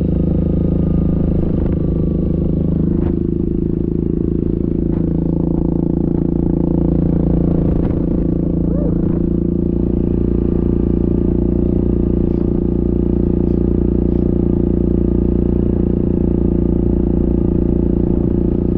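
Yamaha Grizzly ATV's single-cylinder engine running steadily under way, its note shifting slightly about three seconds in, with light clatter from the machine.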